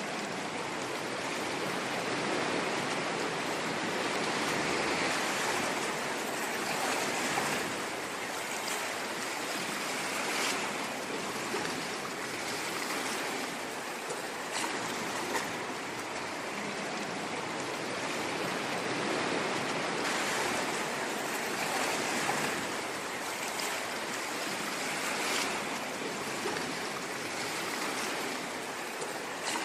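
Ocean waves washing on a shore: a continuous rushing surf that swells gently every few seconds.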